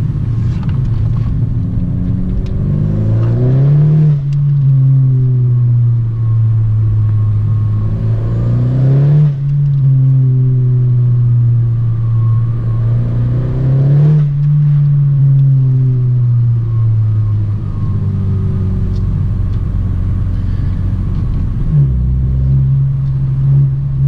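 Turbocharged 1.5-litre four-cylinder Honda Civic engine under load through a catless downpipe and muffler-deleted exhaust, loud. The engine note climbs quickly three times and falls back after each, with long, even stretches between, and steps up again near the end.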